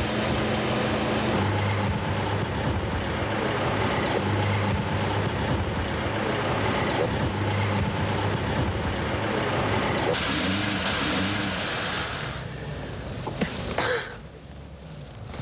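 Audi car running loudly, heard from inside the cabin as it is driven off. The noise turns hissier about ten seconds in, then drops suddenly near the end.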